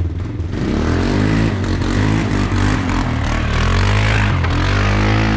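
Four-wheeler (ATV) engine revving hard up a steep dirt hill, its pitch rising and falling as the throttle works, with a gritty spray of noise over it. The quad was left in two-wheel drive, which its rider blames for not making the climb. The sound drops away right at the end.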